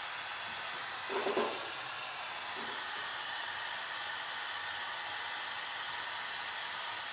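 Temperature-controlled heat gun blowing steadily as a hiss, warming the phone's screen adhesive so the glass can be pried off. A short clatter comes about a second in.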